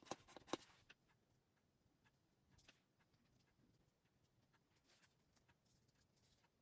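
Near silence: room tone, with a short cluster of soft clicks and a rustle in the first second and a few faint ticks later.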